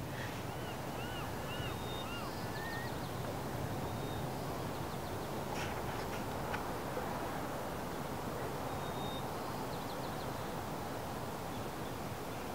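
Birds calling over a steady shoreline background hiss: a quick run of short, arched calls in the first few seconds, a brief chattering call again near ten seconds in. A couple of sharp ticks sound about six seconds in.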